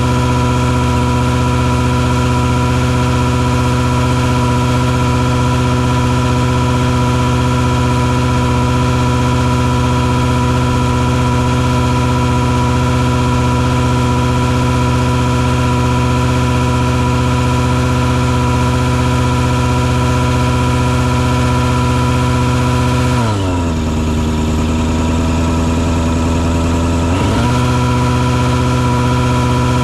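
Engine on a truck-mounted mosquito-fogging rig running loud and steady. Its speed drops suddenly about three-quarters of the way through, holds lower for about four seconds, then comes straight back up.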